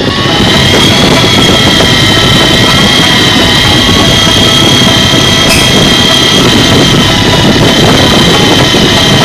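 Fishing boat's engine running steadily under way: a loud, even rush of noise with a steady high whine held throughout.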